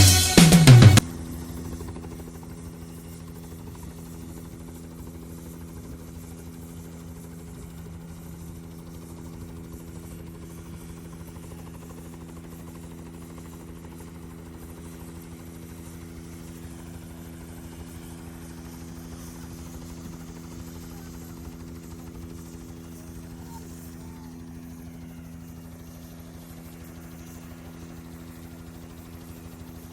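Music stops about a second in, leaving a steady low hum made of a few even tones that does not change in pitch or level.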